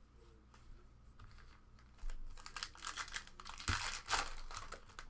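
Trading cards and a foil card-pack wrapper being handled: a fast run of crisp rustles and clicks starts about two seconds in and is loudest near the end.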